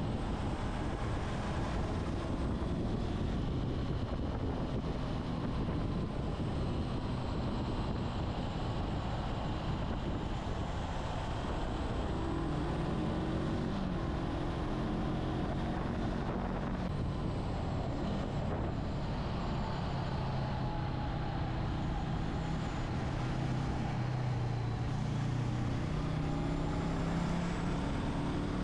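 Motorcycle engine running while under way, with wind noise; the engine pitch rises and falls with the throttle, plainest in the second half.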